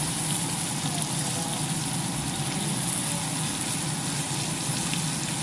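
Flour-dredged fish fillets sizzling steadily in butter in a frying pan, with a steady low hum underneath.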